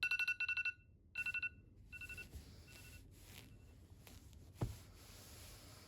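A ringing phone or alarm-clock sound: a rapid electronic trill in short bursts that grow fainter and fainter, like an echo. A single soft thud comes near the end.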